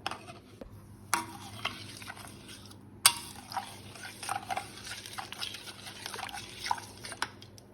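Coconut milk powder being stirred into water, a utensil scraping and clicking against the container, with two sharper knocks about a second in and about three seconds in.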